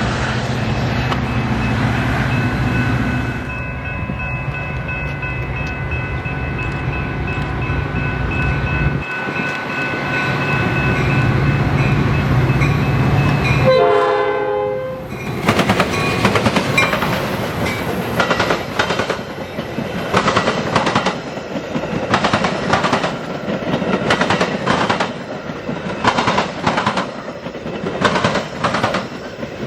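Train passing: its horn sounds a long, steady chord over the rumble of the engine, the horn pitch drops quickly as it goes by about halfway through, then the wheels of the cars clack steadily over the rail joints.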